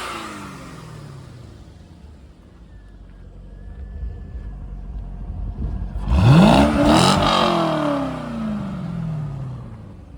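2001 Corvette LS1 5.7-litre V8 being revved. The revs fall back to idle over the first couple of seconds and it idles. About six seconds in it takes a sharp throttle blip and a second one just after, then the revs fall slowly back to idle. The seller describes the engine as free of knocks and ticks.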